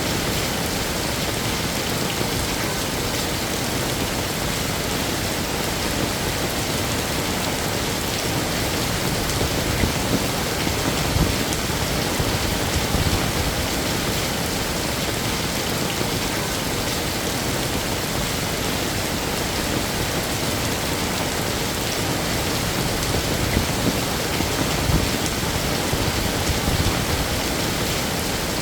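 Heavy rain falling steadily, a dense even hiss, with a few briefly louder spells.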